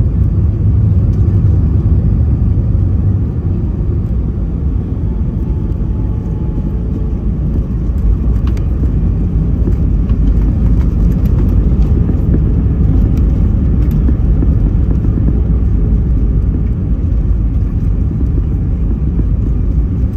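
Airbus A320 airliner's steady low rumble of engines and wheels on the runway after a landing.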